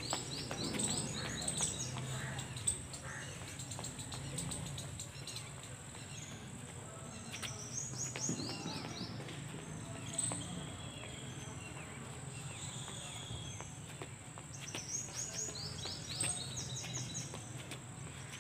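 Outdoor birdsong: a bird repeats short phrases of rapid high notes every few seconds, over a steady high-pitched insect drone.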